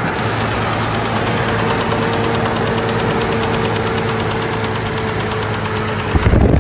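2006 Chevrolet Trailblazer engine running with a rapid, regular knock. Near the end, a loud low thump.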